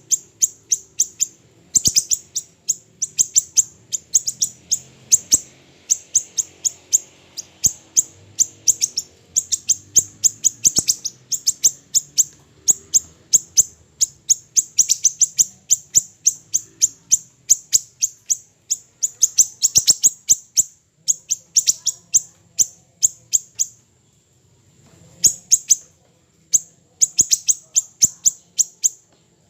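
Song of a small 'siri-siri kecil' songbird: long runs of rapid, sharp, high-pitched chirps, several a second, broken by short pauses and one longer gap about three-quarters of the way through.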